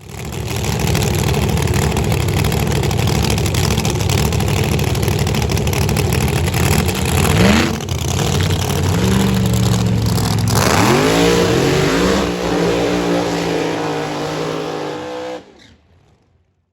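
Drag-racing funny car engine running loud at full throttle. Its pitch climbs sharply about seven and a half seconds in and again around ten and a half seconds, then the sound eases slightly before cutting off suddenly near the end.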